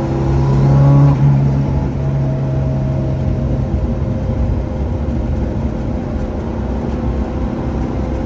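Lancia Delta Integrale Group A rally car's turbocharged four-cylinder engine pulling under acceleration, rising in pitch for about a second, then dropping off suddenly and running on steadily.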